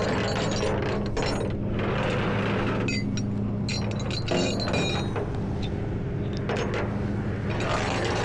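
A truck engine idles with a steady low hum while metal hardware clinks and rattles in irregular bursts, thickest in the middle and again near the end.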